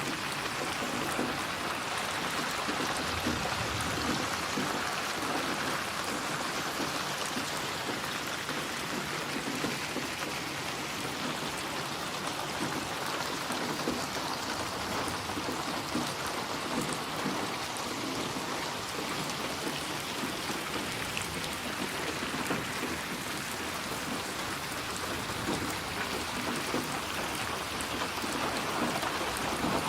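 Steady, even rainfall: a dense patter of raindrops with no let-up.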